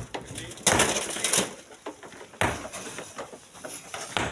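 Rocks and gravel crunching and clattering, with a few sharp knocks of stone on stone.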